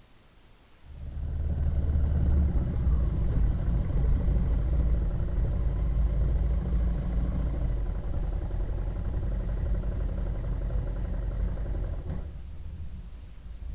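A vehicle engine running at a steady speed, a low rumble that comes in about a second in and stops abruptly near the end.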